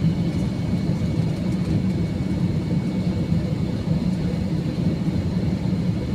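Steady cabin noise of an Airbus A321-200 airliner on final approach: a low, even rumble of engines and airflow with a faint steady high whine above it, heard from inside the cabin.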